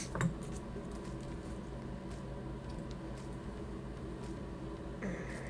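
A light thud as a craft piece is set down on a table, followed by a few faint handling clicks over a steady low hum.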